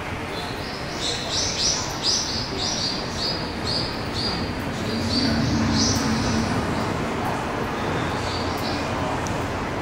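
Birdsong: a run of short, high chirps, about three a second, for several seconds, over a steady low rumble of background noise.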